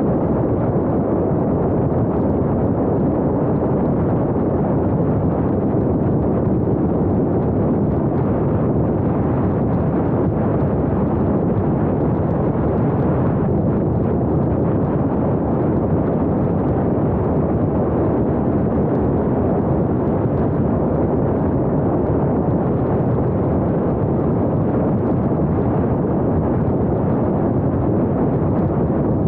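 Steady wind buffeting and road rumble on the small action camera's microphone from a vehicle on the move, a dense low rushing noise with no let-up.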